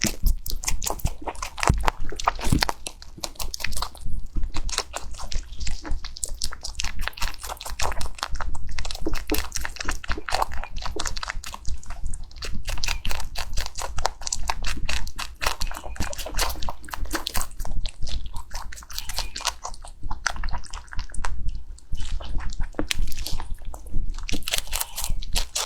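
Rabbit chewing crunchy food, close to the microphone: a fast, steady run of crisp crunches.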